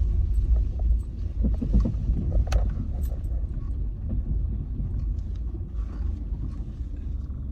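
Steady low rumble of a car driving, heard from inside the cabin, with a few light knocks and ticks over it.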